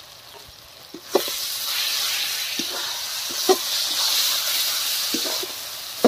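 Onion, capsicum and green-chilli masala sizzling in oil in a metal wok as a spatula stirs in freshly added turmeric, chilli and cumin powder, the frying (kosha) of a chicken curry base. The sizzle jumps up about a second in when the stirring starts, with the spatula knocking against the pan a few times.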